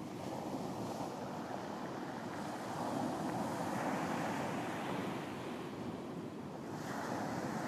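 Surf on a beach: waves washing in with a steady rushing hiss. The wash swells about three seconds in, eases off around six seconds, and a new wave builds near the end.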